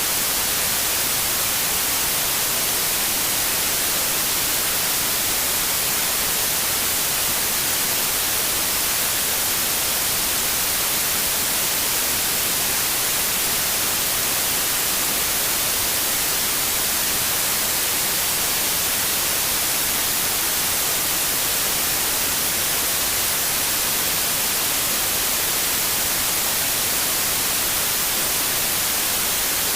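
Synthetic white noise: a steady, even hiss with no changes, strongest in the high frequencies.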